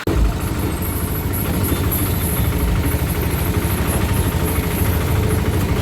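A vehicle running with a steady, loud low rumble and vibration, beginning abruptly.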